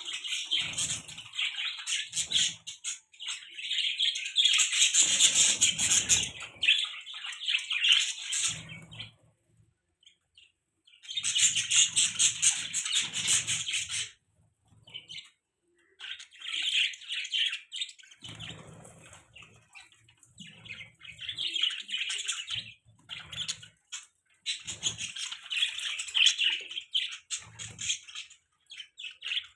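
Budgerigar chirping and chattering: fast, high twittering in bouts of a few seconds, broken by short pauses.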